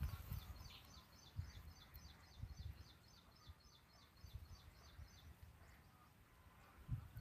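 Faint quick repeated high chirping of a small bird, about three chirps a second, over low dull bumps from the phone being carried.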